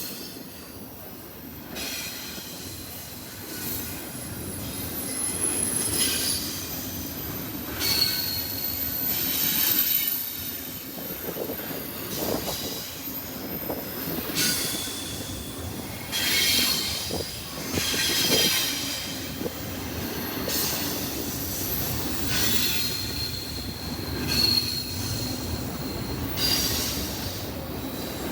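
Freight train cars rolling past with a steady rumble and repeated wheel clatter, their wheels giving high-pitched squeals that come and go.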